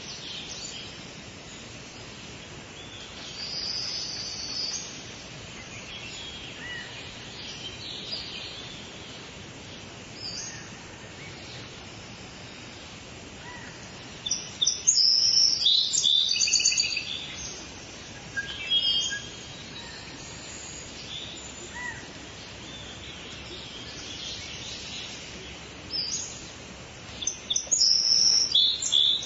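Several songbirds singing and chirping over a steady background hiss, in scattered phrases with two louder bursts of rapid chirping, one in the middle and one near the end.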